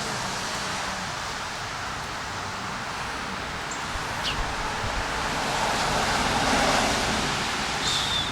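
Strong wind gusting, a steady rush of noise that swells about six seconds in. A couple of short, high falling chirps sound over it, near the middle and near the end.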